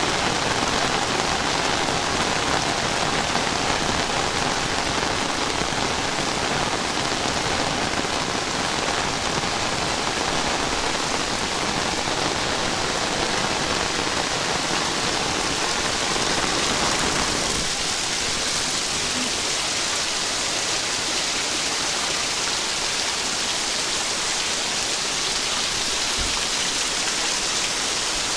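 Heavy rain pouring steadily, a dense even hiss. About two-thirds of the way through, the lower rumble drops away, leaving a thinner, higher hiss.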